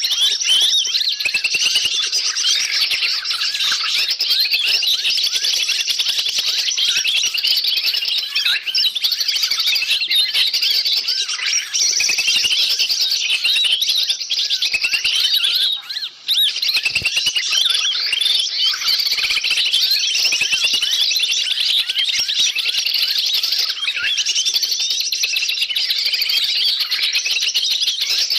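Dense, noisy chorus of many small birds chattering, chirping and trilling at once: a bird-lure (pikat) recording meant to draw wild forest birds in. It dips briefly about two-thirds of the way through.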